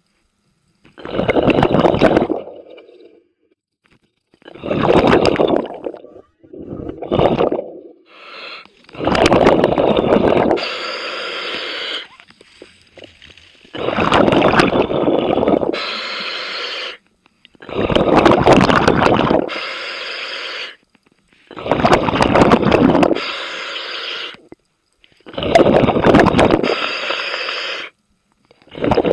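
A scuba diver breathing through a regulator underwater: a loud rush of air and bubbles with each breath, about every four seconds, with quieter bubbling between breaths.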